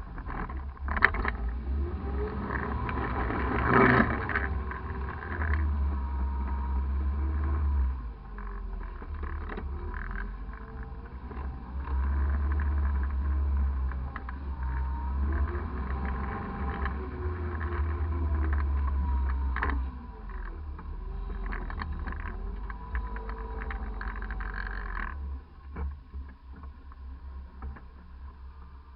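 Off-road crawler's engine running through a rocky river crossing, its revs rising and falling, with scattered knocks and clatter.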